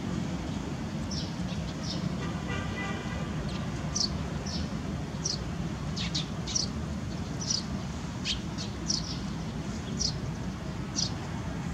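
Small birds chirping: short high chirps repeating every second or so, over a steady low background rumble.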